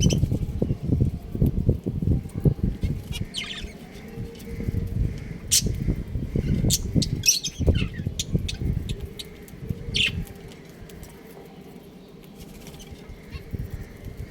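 Budgerigars fluttering their wings and chirping. Busy flapping and rustling fills the first part, with short, high chirps dotted through it, and it dies down after about nine seconds.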